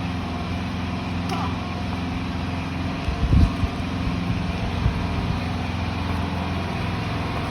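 Generator engine running steadily, a constant low drone loud enough to drown out other sound; a short low thump about three seconds in.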